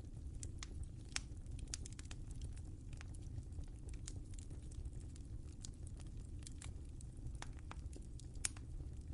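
Wood fire crackling in a fireplace: irregular sharp pops and snaps over a steady low rumble of the burning fire, with a louder pop about a second in and another near the end.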